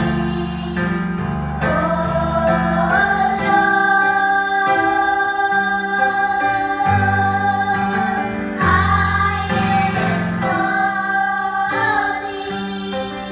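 Female voice singing a song with long held notes over instrumental accompaniment.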